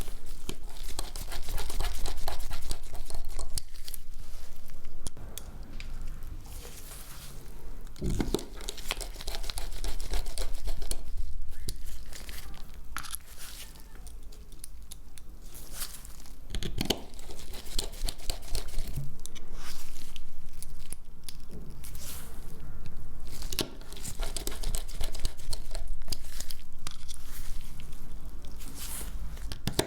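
Crinkling and tearing noises with many scattered small clicks from hands and tools working on a Samsung Galaxy S10e phone being taken apart, over a steady low hum.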